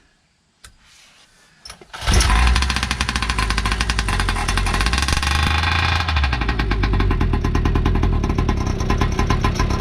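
The two-stroke gas engine of a Primal R/C Raminator monster truck catches on the choke about two seconds in. It then runs loud and fast with a rapid, even ticking, held at a high idle because the throttle trim was left up.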